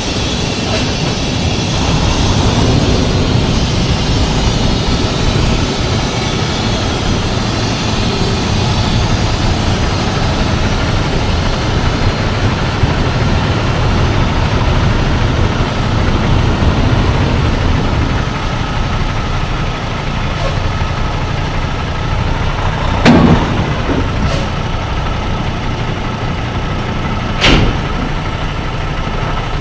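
Semi truck's diesel engine running steadily, with two sharp knocks, one about 23 seconds in and one about 27 seconds in.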